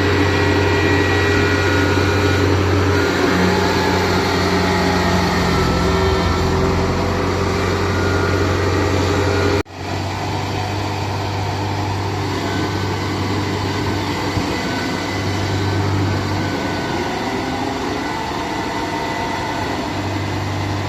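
Heavy machine's diesel engine running steadily, most likely the Kubota DC70 Plus rice combine harvester working in deep mud. Its note shifts around three seconds in, and the sound breaks off abruptly for a moment about ten seconds in before carrying on.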